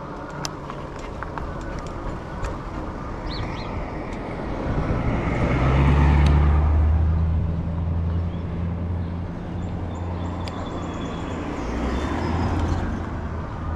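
A car passing close at speed, its tyre and engine noise swelling to a peak about six seconds in and fading; a smaller swell near the end as another vehicle goes by.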